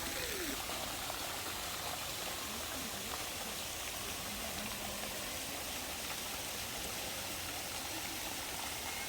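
Steady rushing of running water, like a stream or small waterfall.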